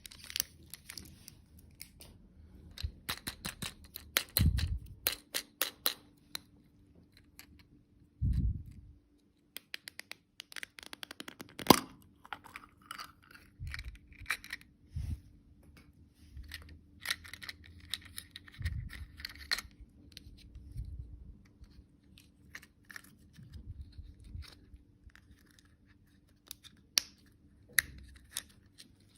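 Packaging being handled and opened: irregular crinkles and sharp clicks, with a few soft low thumps in between.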